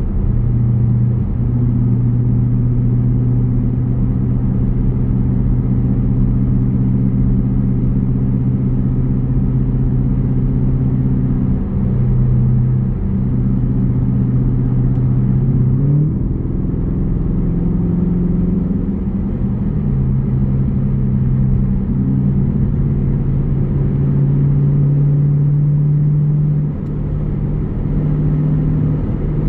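5.7 Hemi V8 exhaust of a Jeep Grand Cherokee rumbling while driving, a steady low drone whose pitch shifts a few times, rising about halfway through as the engine speed changes.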